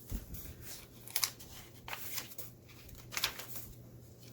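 Paper rustling as the pages and tucked-in papers of a handmade junk journal are turned and handled: several brief, crisp swishes about a second apart.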